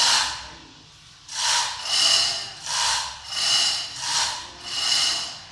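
Repeated rasping strokes, about one and a half a second, each a short scraping rush with a slightly metallic ring. There is a brief pause about a second in.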